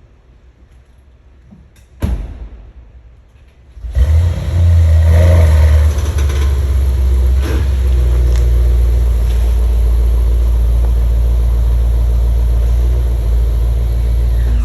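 A short thump about two seconds in, then a car engine starts about four seconds in, flares briefly and settles into a loud, steady low rumble.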